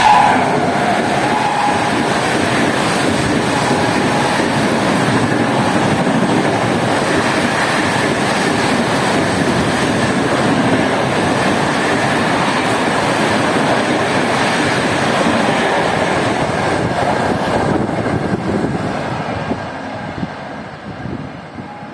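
Coaches of an Indian Railways express passing at about 130 km/h: a steady, loud rush and rattle of wheels on rail, fading away over the last few seconds as the train recedes. The tail of the locomotive's horn drops in pitch right at the start.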